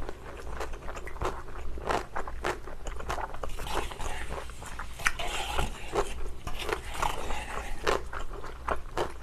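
Close-miked chewing of thick, chewy Chinese glass noodles dressed in spicy sauce: a steady run of short, wet mouth sounds.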